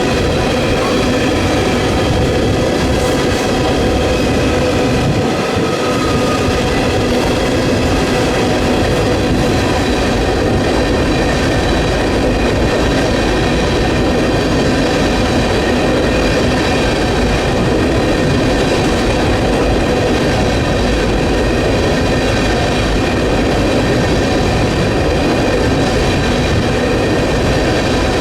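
Freight train cars rolling past at close range: a steady, loud rumble of steel wheels on rail with a continuous high ringing. Wind buffets the microphone.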